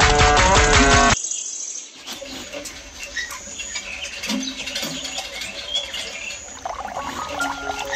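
Music cuts off sharply about a second in; after a brief hush come bird chirps among other scattered small sounds.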